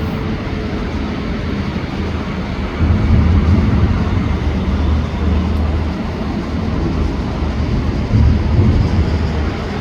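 Fireworks display: a continuous rumbling crackle, with heavier low booms swelling up suddenly about three seconds in and again near eight seconds.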